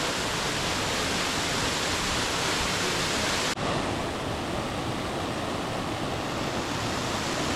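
Steady rushing of water over a creek cascade, an even hiss. About three and a half seconds in it drops out for an instant, then carries on a little duller.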